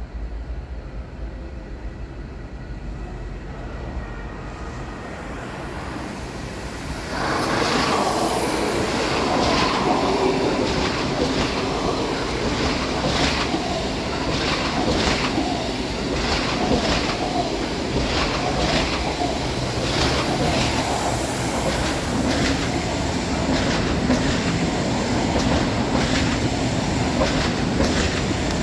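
Deutsche Bahn ICE train running past close by, its wheels clicking over rail joints at a steady rhythm of about one click a second. It gets suddenly louder about seven seconds in as the train draws level.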